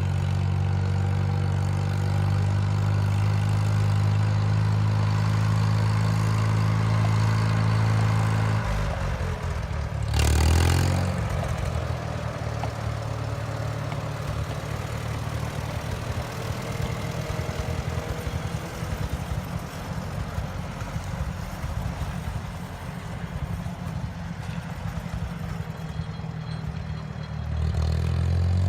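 A Farmall tractor's four-cylinder engine runs steadily. About nine seconds in, the steady note drops away into lower, uneven running, with a brief louder surge about ten seconds in and another near the end.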